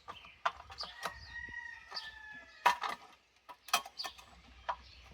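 A rooster crowing once in the background, a held call lasting about a second and a half, among sharp clicks and clanks of metal parts being handled on a small engine, the loudest clank near the end of the crow.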